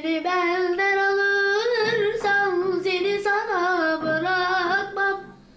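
A high solo voice singing long held notes with wavering, ornamented turns over faint sustained low notes, fading out shortly before the end.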